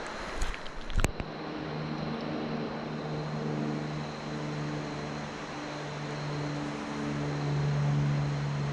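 A few sharp clicks, the loudest about a second in, then a motor engine droning steadily at a low, even pitch.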